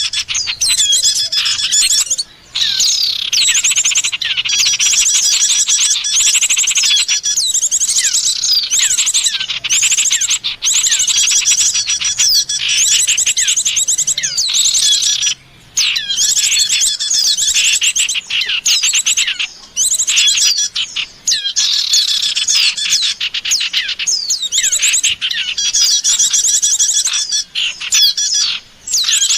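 Bird-lure recording of small songbirds chirping and trilling without pause, several calls overlapping in a dense, high-pitched chorus, broken only by a couple of brief gaps.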